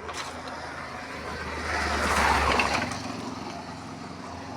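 A road vehicle passes close by, its noise swelling to a peak about two seconds in and then fading over a steady low engine rumble.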